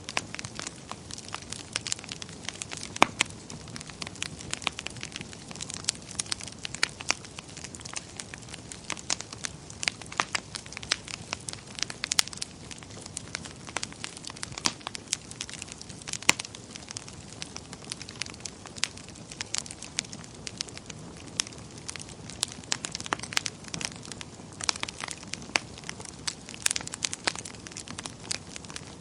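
Wood fire burning in a fireplace, crackling steadily over a soft hiss, with irregular sharp pops, a few of them louder.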